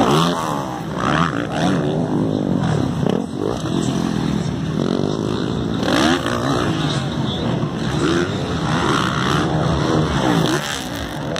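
Several motocross bikes racing, their engines revving up and down with overlapping, shifting pitches as they work through the track.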